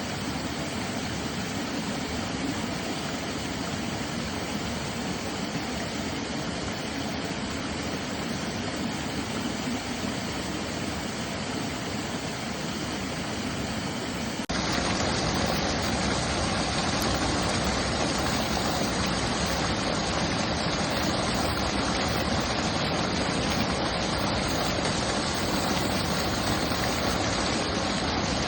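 Mountain stream rushing steadily over rocks. About halfway through it cuts abruptly to a louder, brighter stretch of rushing water.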